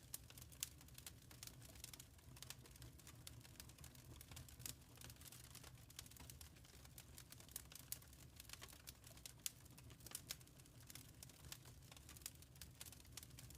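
Wood fire crackling: faint, irregular snaps and pops over a low steady rumble, with a few sharper pops standing out.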